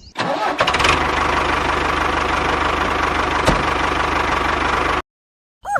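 An engine idling steadily with a fast, even knocking beat and one sharp click partway through; it cuts off abruptly about five seconds in.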